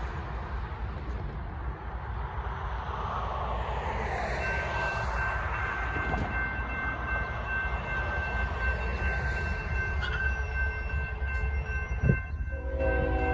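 A railroad crossing's warning bell starts ringing about four seconds in over the low rumble of an approaching freight train, which slowly grows louder. Near the end, the lead GE ES44C4 locomotive's air horn starts sounding.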